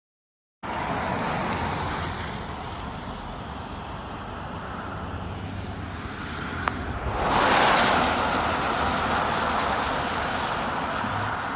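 Steady rushing road and rain noise from a moving vehicle, swelling louder for a few seconds about seven seconds in, with a single sharp click shortly before.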